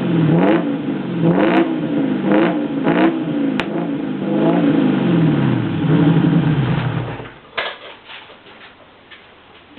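Alfa Romeo Montreal's 2.6-litre V8 blipped in a series of short revs that rise and fall back toward idle. It runs steadily for a moment, then winds down and stops about seven seconds in, and a few faint clicks follow.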